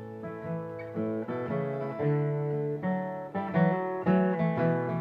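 Acoustic guitar playing an instrumental passage of plucked notes and strums, with no singing.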